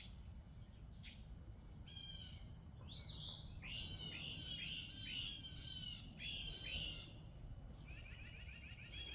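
Wild birds chirping: a run of quick downward-sliding chirps through the middle, then a fast trill near the end, over a faint low background rumble.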